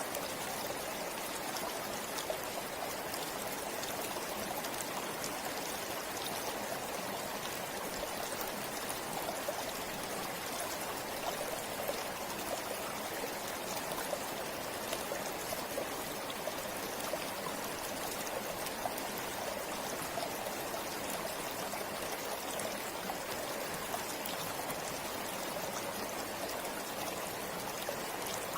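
Forest river flowing steadily, a continuous rush of water with small splashes and trickles scattered through it.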